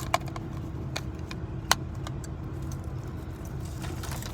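Steady low rumble of an idling vehicle engine, with a few sharp clicks and taps over it, the loudest about one and a half seconds in.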